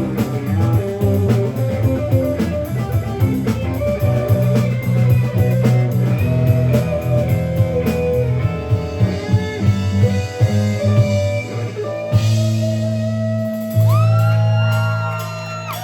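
Live rock band on electric guitars, bass and drum kit playing an instrumental passage with no vocals. About twelve seconds in, the drums stop for a held final chord, while a guitar bends notes up and down and the sound fades.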